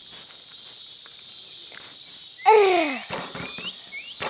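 Crickets chirring steadily in the background. About two and a half seconds in, a loud, short cry falls in pitch, followed by a few faint rising chirps.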